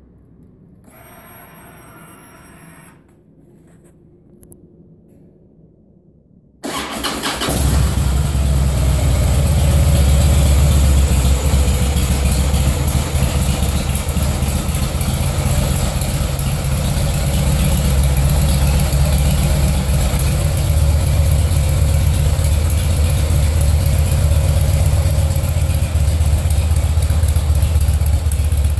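2009 Harley-Davidson Rocker C's V-twin with a Screamin' Eagle muffler, started about seven seconds in: it catches at once and then idles steadily with a deep, loud rumble. A brief high whine comes about a second in, before the start.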